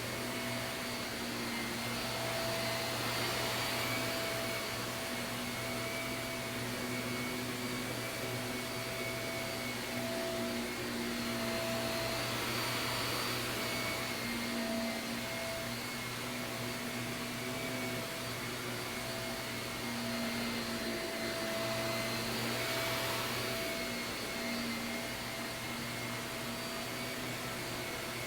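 Shark vacuum cleaner running steadily on carpet, its motor hum and airflow hiss swelling and easing gently every few seconds.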